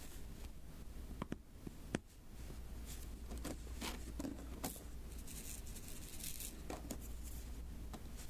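Diamond-painting beads being tapped one by one onto a sticky canvas: light, sharp taps, with a denser patch of crackly, sticky rustling in the middle.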